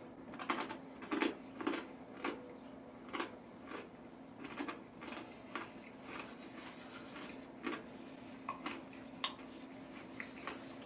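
Chewing crispy cold fried chicken with dentures: irregular crunches, densest in the first few seconds and sparser after. Later comes a soft rustle of a paper napkin as hands are wiped. A faint steady hum runs underneath.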